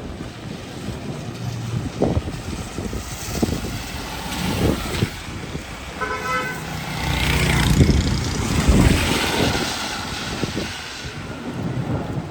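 A vehicle horn toots briefly about six seconds in, then a vehicle passes close by with a rising and falling rush of engine and tyre noise. Wind buffets the microphone throughout.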